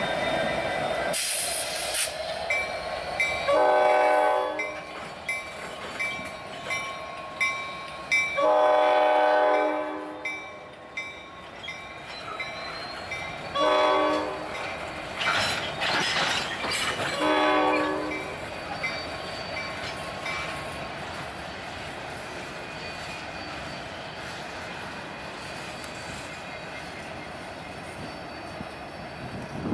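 Locomotive multi-chime air horn blowing long, long, short, long, the standard grade-crossing signal, over an evenly repeating crossing bell. The train then rolls past with a steady rumble of wheels.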